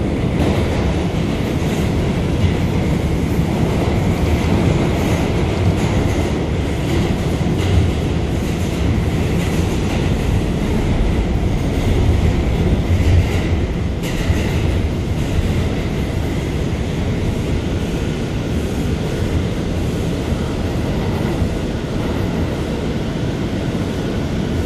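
R179 subway car heard from inside while running at speed through the tunnel: a steady, loud rumble of wheels on rail.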